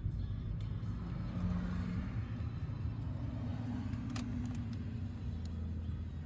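Car running with a steady low rumble of engine and road noise, its pitch shifting slightly; a single sharp click about four seconds in.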